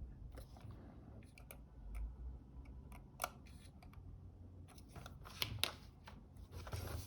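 Small hand tool clicking and scraping against the internals of a Fuji GA645 camera while its glue-stuck shutter flex cable is worked on: scattered sharp ticks, a few louder ones a little past halfway.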